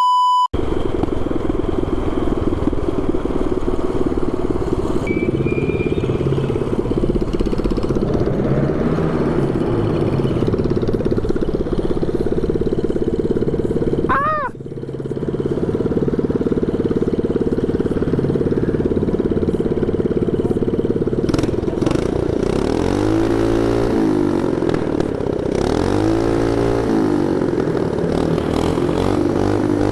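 Harbor Freight Predator 224cc single-cylinder mini bike engine with a short straight pipe, running hard under way. Its revs rise and fall with the throttle, with several rev swells in the second half.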